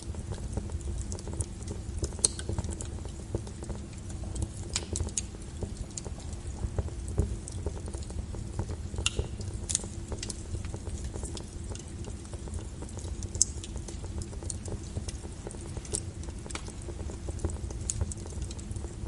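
Log fire burning in a fireplace: a steady low rumble with irregular sharp crackles and pops from the burning wood.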